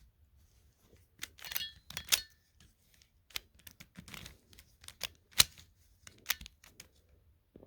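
Plastic puzzle cube being turned by hand: irregular clicks and short rattles as its layers turn, a few sharper snaps among them.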